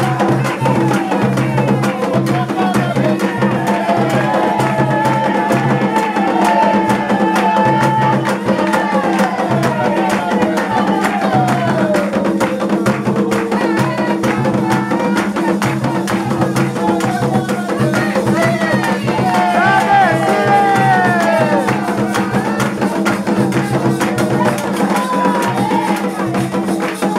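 Candomblé ritual music for Xangô: drums and a wood-block-like percussion instrument beating a steady rhythm under gliding sung chant.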